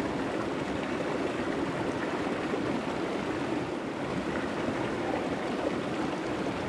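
Steady rush of flowing water from a creek.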